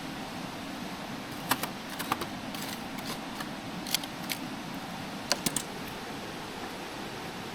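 Campfire burning with a steady hiss and scattered sharp pops and crackles from the burning wood, irregular and several in quick succession around the middle.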